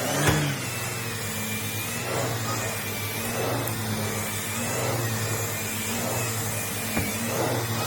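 Numatic Henry canister vacuum cleaner running steadily: a motor hum with a high whine that wavers slightly in pitch, and a couple of light knocks, one just after the start and one near the end.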